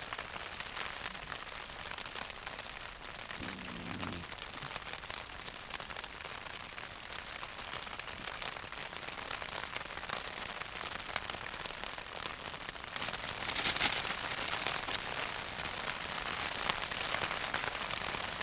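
Rain pattering steadily on the fabric of a Southern Cross 2 tent, heard from inside, with a brief louder rustle about three-quarters of the way through.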